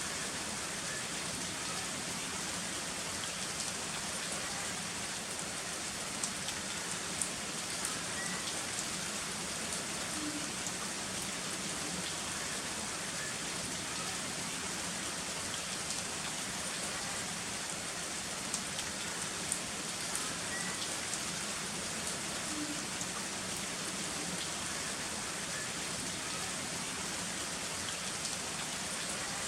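Heavy rain falling steadily, an even hiss with sharp individual drops ticking now and then.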